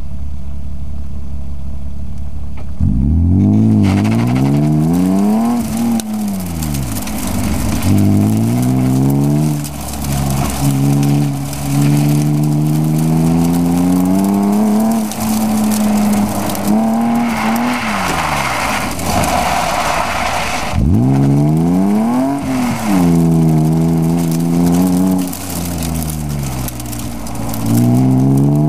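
A BMW E36 M3's straight-six engine, heard from inside the cabin, idles and then launches hard about three seconds in. It revs up and down through gear changes and lifts as the car is driven hard through the course, and tyres squeal for a few seconds about two-thirds of the way through.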